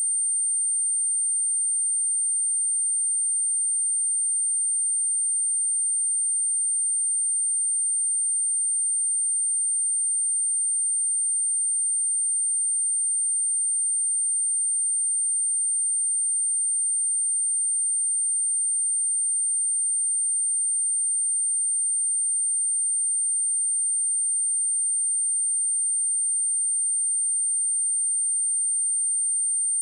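A steady, high-pitched 8884 Hz sine-wave test tone held at one pitch and level without a break, used for speaker testing and for clearing water and dust from a speaker.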